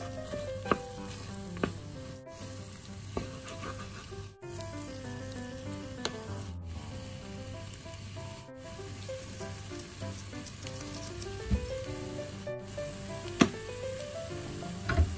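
Cauliflower rice sizzling in a stainless saucepan while a wooden spoon stirs it, with a few sharp knocks of the spoon against the pan, the loudest near the end. Soft background music plays underneath.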